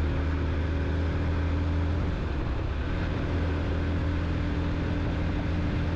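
Motorcycle engine running at a steady cruising speed, a constant drone with wind and road noise, as heard from the moving bike.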